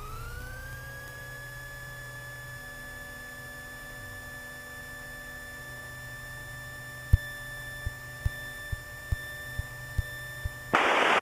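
Electrical whine in the Piper Archer's intercom and headset audio. Its pitch rises over the first second as the engine picks up revs, then it holds steady. From about seven seconds in, short clicks come roughly twice a second, and near the end there is a brief burst of radio hiss.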